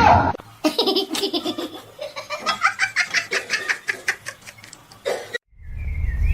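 A person laughing hard in a quick run of short laughs, after a sudden loud knock at the very start. Near the end the laughter stops and a steady low rumble begins.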